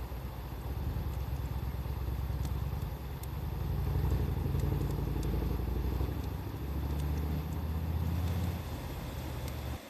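Wood fire crackling with scattered sharp pops, under a loud low rumble that swells and fades and then cuts off suddenly near the end.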